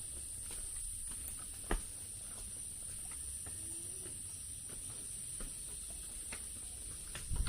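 Steady high-pitched buzz of an insect chorus, with scattered light clicks and one sharper knock a little under two seconds in.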